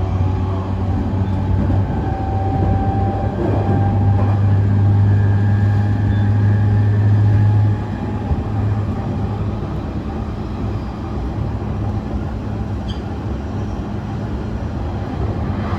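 Onboard running sound of a JR E531 series electric train with Hitachi IGBT inverter traction gear, running between stations: continuous rolling and motor noise with a strong low hum that drops away about eight seconds in.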